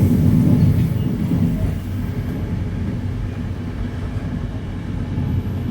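Passenger train running: a steady low rumble of the carriage and wheels on the track.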